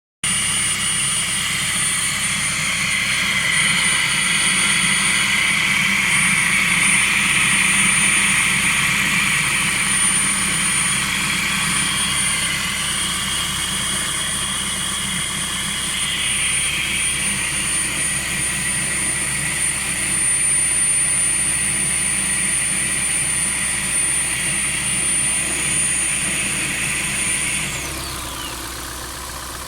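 Vehicle engine idling steadily, an engine that shakes as it runs. A thin high whine sits over it and glides down and stops near the end, where the sound gets a little quieter.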